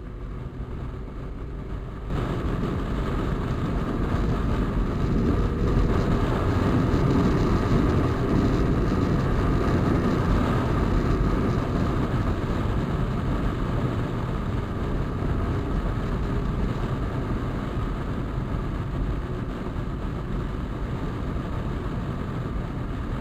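Suzuki Bandit motorcycle's inline-four engine running on the road, growing louder about two seconds in and holding steady.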